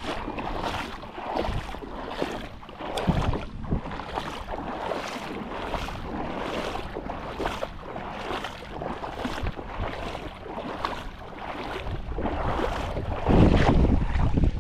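Water sloshing and splashing in a steady rhythm, about three surges every two seconds, with wind buffeting the microphone, heaviest near the end.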